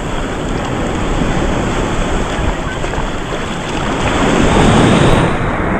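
Ocean surf: waves breaking and washing, swelling loudest about four to five seconds in, with wind buffeting the microphone.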